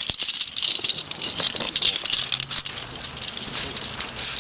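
Metal rope-rescue hardware, carabiners and pulleys, rattling and clinking as it is handled, with many quick small clicks over a steady rattly hiss.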